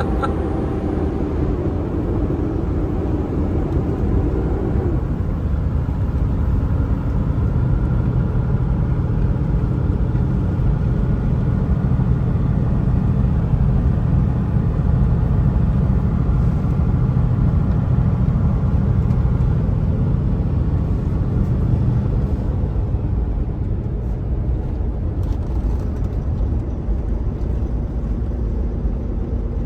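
Kenworth T680 semi truck's engine and road noise heard from inside the cab on a steep downgrade: a steady low rumble with an engine tone that shifts about five seconds in and fades out near the end.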